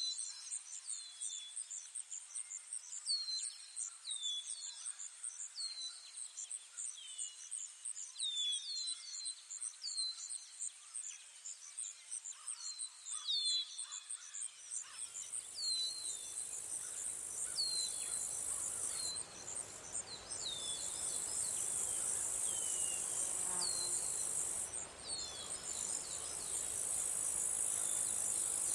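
Insect chorus: a fast, even, high-pitched pulsing trill with short downward-sliding chirps repeating every half second or so. About halfway through, a louder hissing buzz and a low rushing noise join in; the buzz breaks off briefly twice.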